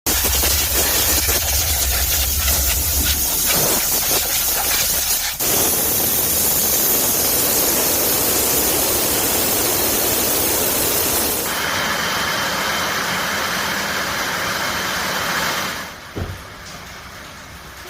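Steam car-wash machine jetting steam vapour from its nozzle: a loud, continuous hiss that changes character abruptly twice, with a steady whistle-like tone in the later part, then drops off sharply near the end.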